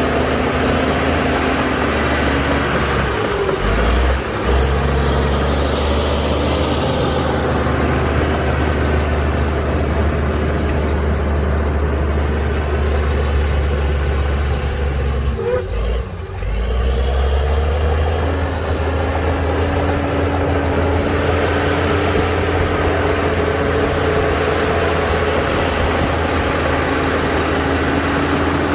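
Heavy earthmoving machinery's diesel engine running steadily and loudly, with a strong low drone and two brief dips in its note, about four and about sixteen seconds in.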